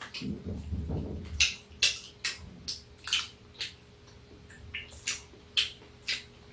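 Close-up eating sounds of two people chewing bread and snacks: about a dozen short, wet lip smacks and mouth clicks spaced through the chewing.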